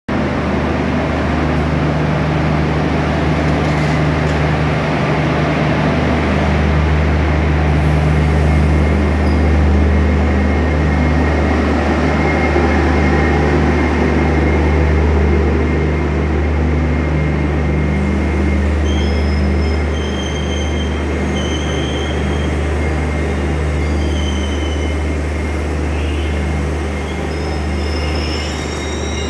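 Electric-hauled Garib Rath Express train pulling into a station, its coaches rolling past with a loud, steady rumble. Short high-pitched squeals come in over the second half as it slows.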